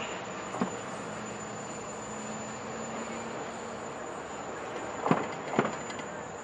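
Distant approaching diesel freight train, heard as a steady low rumble and hiss. Three short sharp clicks come through, one about half a second in and two close together near the end.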